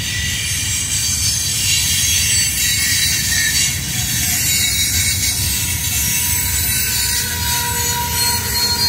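Loaded ballast cars rolling past on steel wheels: a steady low rumble from the wheels and rails, with a high hissing squeal of wheel on rail above it.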